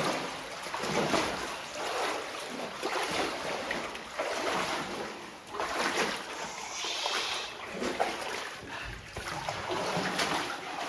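People wading through water in a flooded mine passage, with irregular splashing from their steps.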